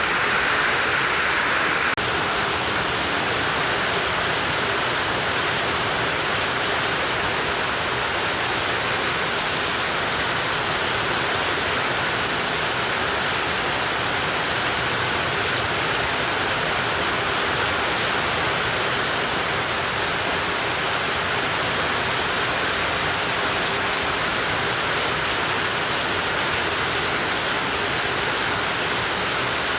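Heavy tropical rain falling steadily: an even, unbroken hiss of downpour.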